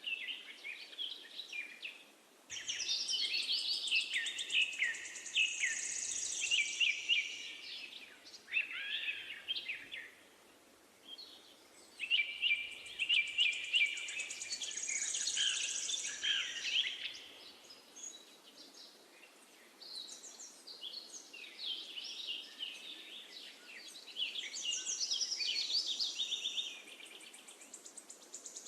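Songbirds chirping and singing in bouts of quick, warbling phrases a few seconds long, with short pauses between, over a faint steady hiss.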